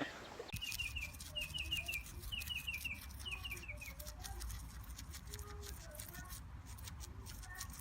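High chirps from a bird, in quick runs of four or five short falling notes; four runs come in the first four seconds. Faint clicking and a low hum run underneath.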